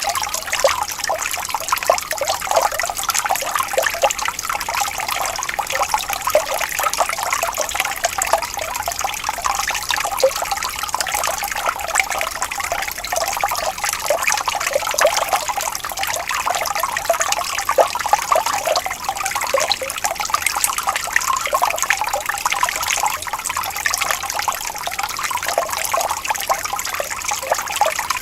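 Water flowing and trickling steadily, a continuous bubbling splash made of many small flickers and little deep rumble, as of a small stream running over stones.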